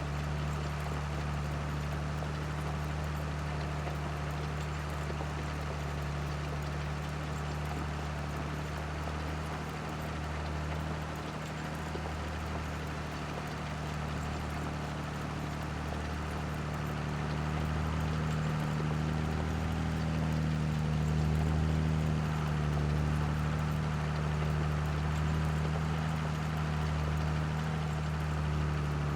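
Tractor engine running steadily in a low drone, growing a little louder about two-thirds of the way through.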